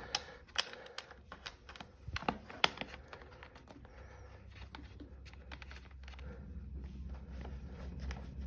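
Scattered clicks and taps from hand-fitting the rototiller's air filter and its plastic air cleaner housing back onto the carburetor, busiest in the first few seconds, over a faint low hum.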